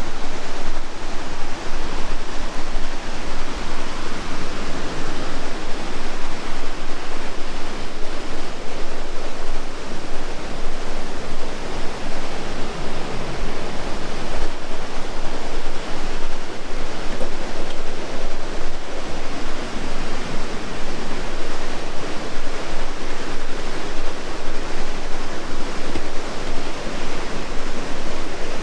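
Loud, steady rushing water.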